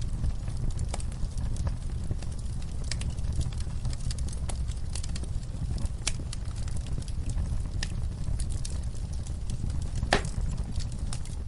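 Wood fire in a fireplace crackling over a low, steady rumble of flames, with irregular sharp pops and one louder pop near the end.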